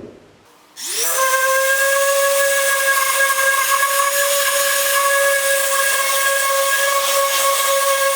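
A power sander spins up about a second in and then runs at a steady high whine, with a strong hiss as it sands down body filler on a car panel.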